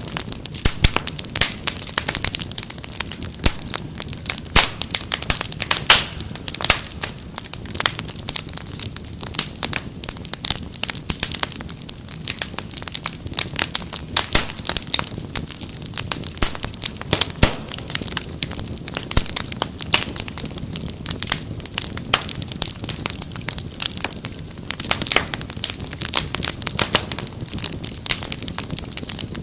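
Wood fire burning with dense, irregular crackling and sharp pops, several a second, over a low steady rumble of flames.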